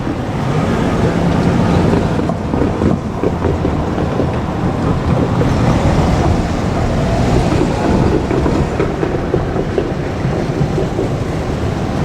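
JR Kyushu 817 series electric train running past close by: a loud, steady running noise with scattered sharp clicks from the wheels and track.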